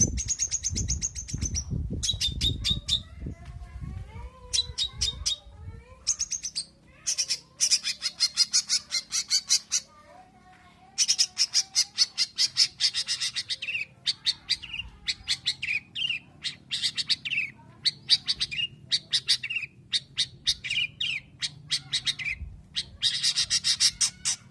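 Long-tailed shrike (cendet) singing: repeated runs of fast, sharp chattering notes, mixed with softer wavering whistles. A low rumble sits under the first few seconds.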